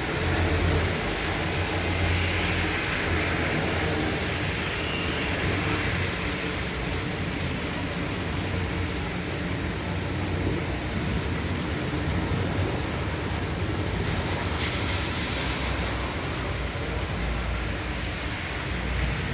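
Heavy tropical downpour: a steady rush of rain, with a low rumble through the first few seconds.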